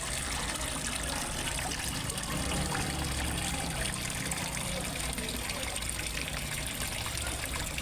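Water splashing and trickling steadily into a fish pond, as from a small waterfall, with a low rumble underneath for a few seconds mid-way.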